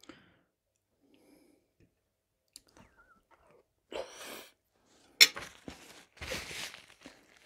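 Quiet close-miked chewing of boiled potato vareniki, picked up by a lapel microphone. Just after five seconds a sharp click as the fork is set down on the plate, then a paper napkin rustles against the mouth as she wipes it.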